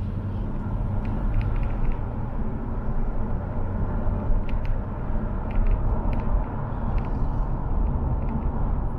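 Steady low rumble of a car driving along a city road, engine and tyre noise heard from inside the car by a dashcam, with faint light ticks now and then.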